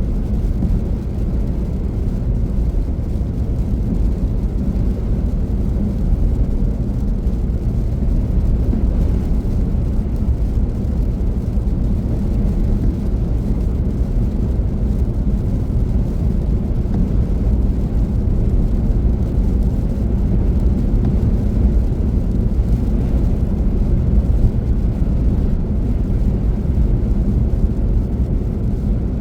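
Steady low rumble of a car driving: tyre and engine noise running evenly with no sudden events.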